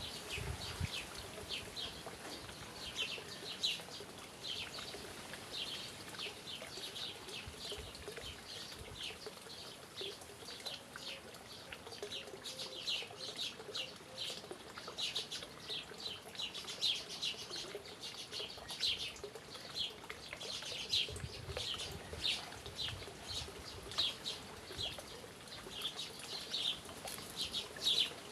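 Small birds chirping: a steady run of short, high chirps, several a second, over a faint steady background.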